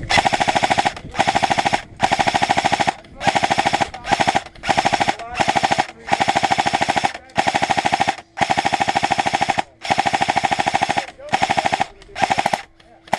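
Airsoft rifle firing full auto in a long string of short bursts, each half a second to a second long with brief pauses between, the rapid shots running together into a steady rattle.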